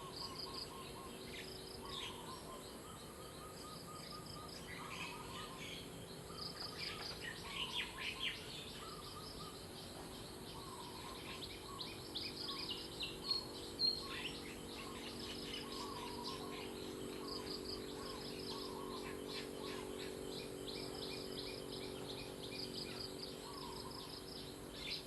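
Several small birds chirping and calling, with many short, quick falling notes, busiest about a third and halfway through. A steady low hum runs underneath.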